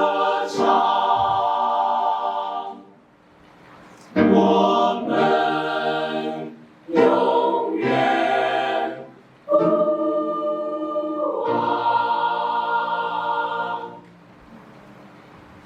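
Choir singing in several parts, in phrases broken by short breaths, with no clear instrument beneath it. The final chord ends about fourteen seconds in.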